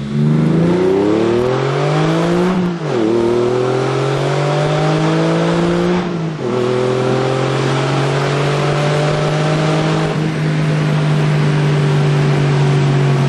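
Porsche 996's flat-six engine through Fabspeed GT3 Cup-style muffler bypass pipes, with no mufflers. It revs hard under full-throttle acceleration through two quick upshifts, the pitch dropping sharply at each one, then runs at a steady pitch.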